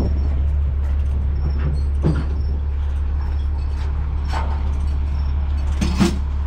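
Steady low drone of an idling truck engine, with a few sharp metal clanks about two seconds apart as the load's tie-down straps and ratchets are released.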